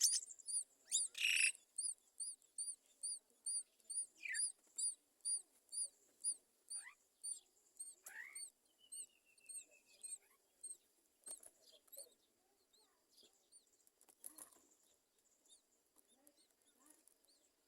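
Bird calls: a regular series of short, high chirps, about two to three a second, fading out about two-thirds of the way through, with a few scattered falling whistle notes and a short descending trill.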